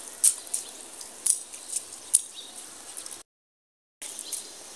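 Rain falling, a steady hiss with a few sharp drip ticks in the first couple of seconds. The sound cuts out completely for most of a second near the end.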